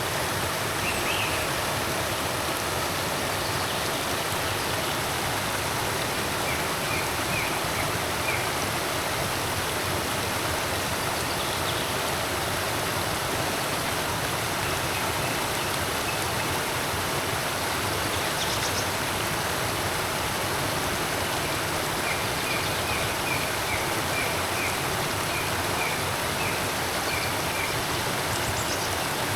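Forest creek water flowing steadily, with small birds chirping faintly in short runs now and then.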